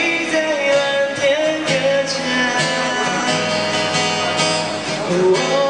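Band music without words: a held, bending lead melody over guitar and bass accompaniment, the song's intro before the vocal comes in.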